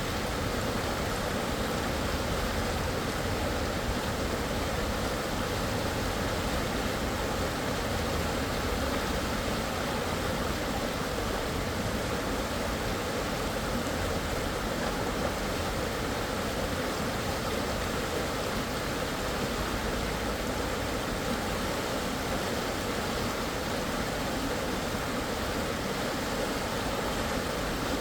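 Steady rush of fast-flowing stream water, with a constant low rumble underneath.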